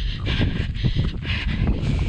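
Strong wind buffeting the microphone as a low, steady rumble, with a rhythmic hissing swish about twice a second on top.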